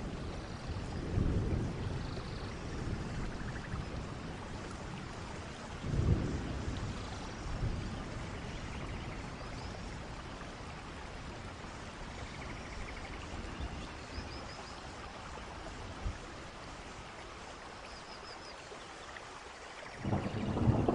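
Steady rain falling, with thunder rumbling about a second in, more strongly about six seconds in, and swelling again near the end. A few faint high chirps sound in the background.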